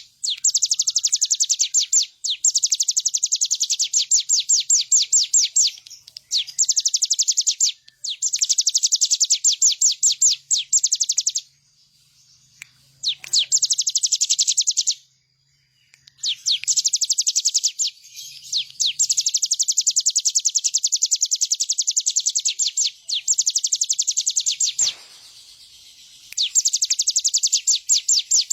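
Ciblek gunung (a prinia) singing continuously: long rapid trills of sharp, high chip notes, about ten a second, in phrases of two to three seconds separated by short pauses.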